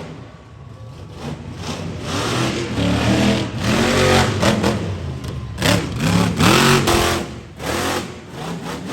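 Monster truck engine revving hard in repeated swells, its pitch climbing and dropping several times, loudest about four and six to seven seconds in.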